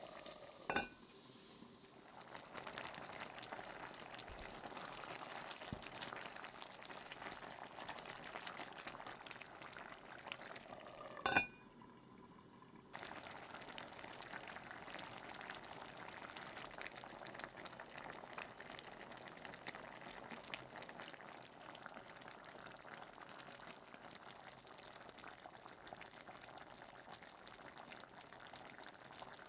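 Food simmering in a thick sauce, bubbling and crackling steadily. Two sharp clicks come, about a second in and again about eleven seconds in, each followed by a brief quieter moment.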